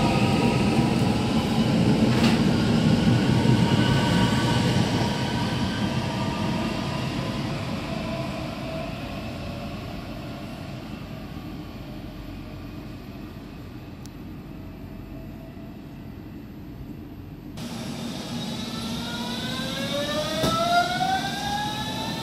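Red DB Regio electric multiple unit pulling out of an underground station platform, its running noise and motor tones loud at first, then fading away over about twelve seconds. After an abrupt cut, a red-and-yellow Berlin S-Bahn train pulls in, with a whine from its drive that rises in pitch over the last few seconds.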